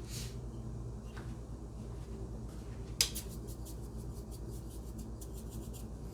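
Kitchen handling noise: one sharp clack of a dish or utensil about three seconds in, followed by a quick run of light clicks, over a steady low hum.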